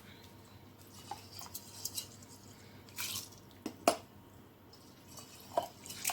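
A handful of sharp clinks and knocks of kitchen containers and a blender jar being handled, the loudest about four seconds in, with a short scraping rustle about three seconds in.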